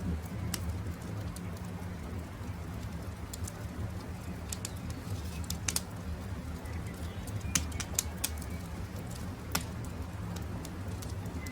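Wood campfire crackling, with sharp irregular pops over a steady low rumble; the loudest pops come about halfway through and again near eight and nine and a half seconds in. Faint short bird calls sound now and then.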